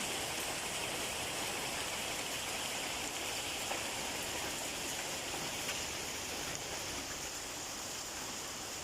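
Heavy rain pouring down steadily in a thunderstorm with hail, with a few faint ticks over the even rush of the rain.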